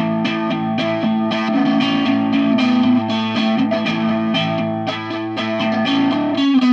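Music: a guitar picking single notes in a steady, even rhythm, at the opening of a rock song.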